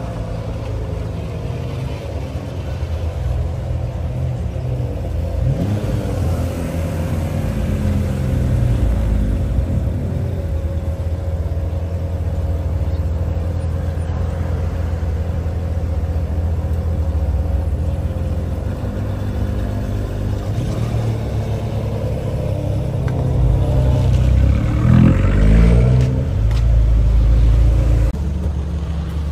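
Sports car engines running low and rumbling, with revs rising in pitch about a quarter of the way in and again, louder, near the end.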